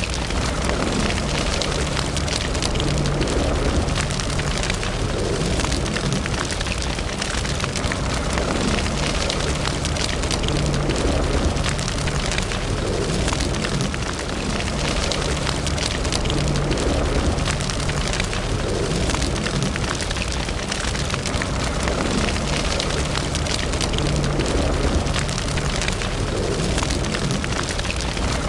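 Fire burning in a fireplace: a steady low rumble with many small crackles and pops throughout.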